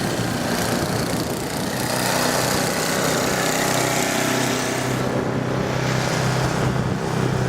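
Large snow blower's engine running steadily while clearing a snow-covered driveway, with a rushing hiss over it that eases about five seconds in.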